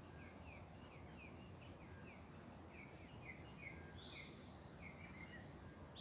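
Faint birdsong: a small bird repeats short falling notes, about three a second, with a brighter, higher call about two-thirds of the way through, over the low steady rush of a river.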